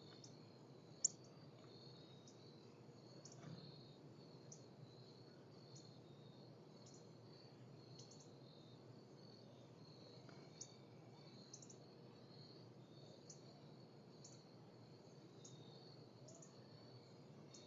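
Faint steady high insect trill, like crickets, with short high chips repeating about once a second and one sharper chip about a second in.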